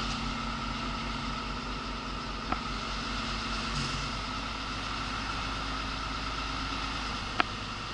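Mercedes articulated lorry's diesel engine running steadily at low revs, heard from inside the cab, with a pulsing low throb. Two short faint clicks, one about two and a half seconds in and one near the end.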